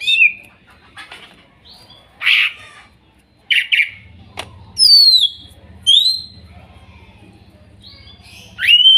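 Greater green leafbird (cucak ijo) calling: loud, separate whistled notes that slide downward, mixed with a few short harsh chattering notes, and a sharply rising whistle near the end. A low steady hum sits under it from about four seconds in.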